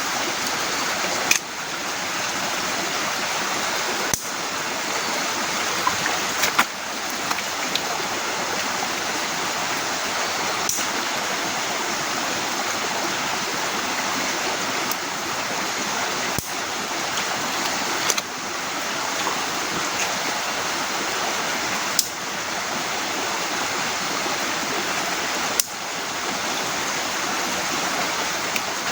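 Heavy rain falling steadily, a dense even hiss, with a few sharp taps scattered through it.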